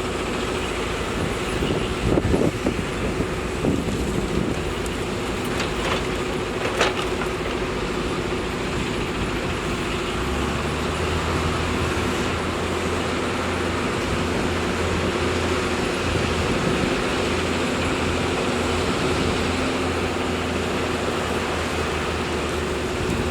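Heavy machinery engine running steadily with a held tone and a few sharp knocks in the first seven seconds. A deeper hum joins about ten seconds in.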